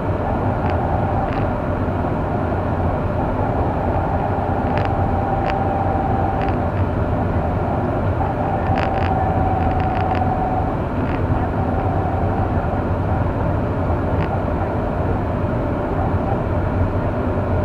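Steady engine and road noise inside a moving car, with a few short clicks here and there.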